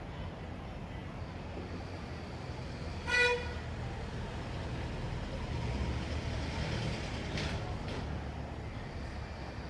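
Steady rumble of passing road traffic, with a single short vehicle horn toot about three seconds in.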